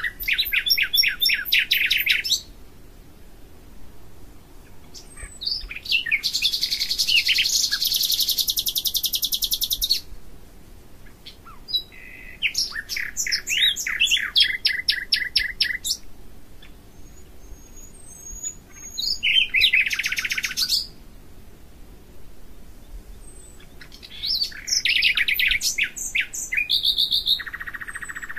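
A songbird singing in phrases of rapid repeated notes and trills. The phrases last a few seconds each and come about five times, with short quiet pauses between them.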